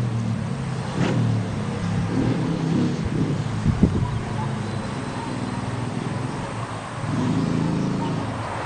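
Honda CBR1000RR Fireblade's inline-four engine running, its revs raised briefly a few times, the longest swell near the end.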